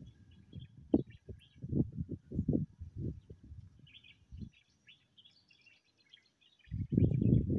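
Small birds chirping in the background in short, scattered calls. Irregular low, muffled rumbles come and go over them, with a quiet stretch past the middle and the loudest rumble near the end.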